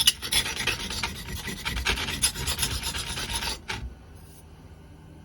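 Edge of a small 3Cr13MoV steel knife scraped hard back and forth along a brick to blunt it: a gritty rasping that stops with a click about three and a half seconds in.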